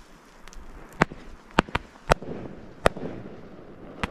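Consumer fireworks going off: about six sharp bangs at irregular intervals, two of them close together about a second and a half in.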